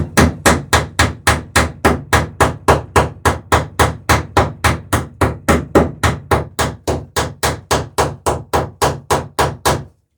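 Hammer striking in a rapid, even rhythm, about three and a half blows a second, peening over a rivet on the sheer strake of a wooden dory. The blows stop shortly before the end.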